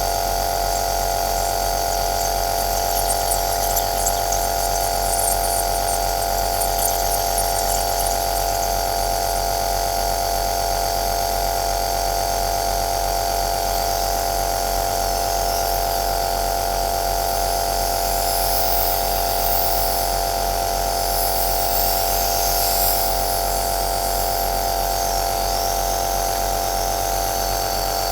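Compressor nebulizer running steadily: a constant motor hum with a strong mid-pitched tone, under a hiss of air and mist. A faint crackle comes and goes in the hiss.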